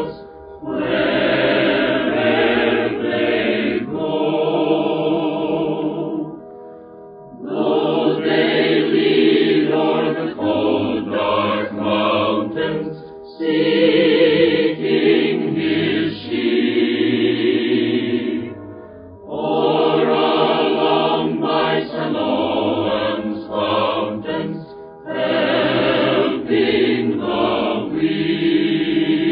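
Choir singing a hymn in long sustained phrases with short breaks between them, heard through an old radio-broadcast recording.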